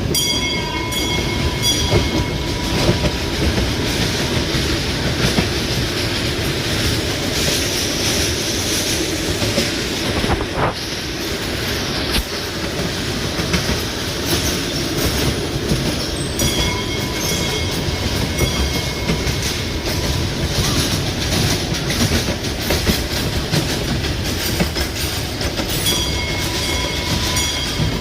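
Train running on rails: a steady, loud rumble of wheels and carriages. A thin high squeal rises over it for a couple of seconds at the start, again about two-thirds of the way through, and near the end.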